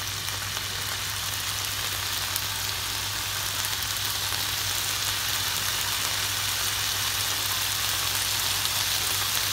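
Chicken and nemagari bamboo shoots sizzling in a nonstick frying pan: a steady frying hiss that grows slightly louder, over a steady low hum.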